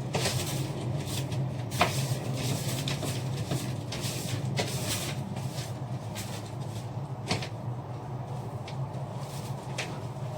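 Scattered light knocks and brief rubbing sounds of household handling and climbing, over a steady low hum.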